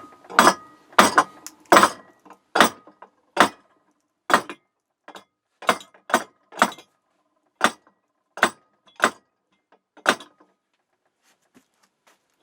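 Repeated metal-on-metal hammer blows, about fourteen strikes half a second to a second apart, each with a short ring, stopping about ten seconds in. They are meant to drive a heated, seized pin out of the cast iron workbench's handle, slide-hammer fashion, and the pin does not budge.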